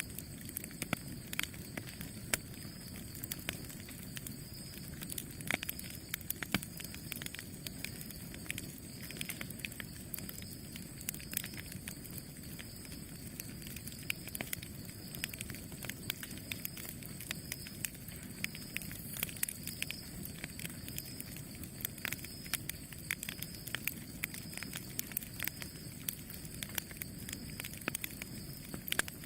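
Campfire burning, with frequent irregular sharp crackles and pops over a steady low rush of flame.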